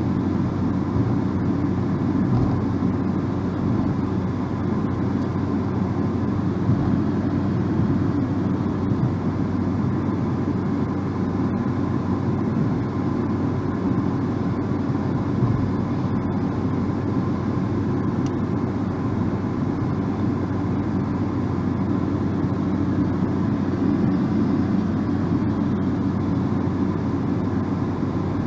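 A car driving at a steady speed: an even, low rumble of tyre and road noise with a faint steady engine hum.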